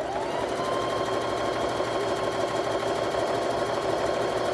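Electric sewing machine running steadily at speed, stitching a seam through quilt fabric, its motor whine rising quickly as it starts and then holding level.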